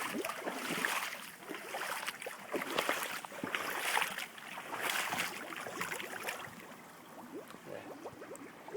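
Boots wading through ankle-to-shin-deep floodwater, sloshing and splashing at each step about once a second, easing off over the last few seconds under a steady running-water hiss.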